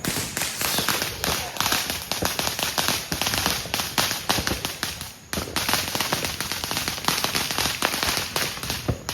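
Dense, rapid crackling of firecrackers going off, many sharp pops a second. There is a brief break about five seconds in, and the crackling stops abruptly near the end.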